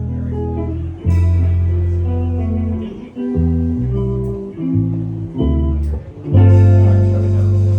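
Live band music: guitar chords ringing over a strong bass line. The notes change every second or so, then settle into a loud held chord about six seconds in.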